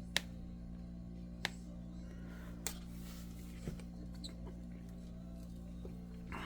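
Sharp clicks and ticks of broken glass being picked off an iPad 2's frame, about four clear ones a second or so apart with fainter taps between, over a steady low hum.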